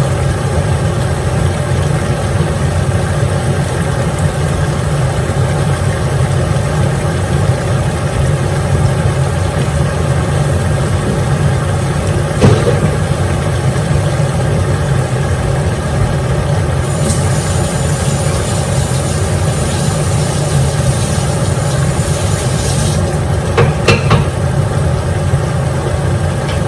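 A steady low mechanical hum runs throughout, like a motor running. There is a sharp knock about halfway through, a high hiss for several seconds past the middle, and a couple more knocks near the end.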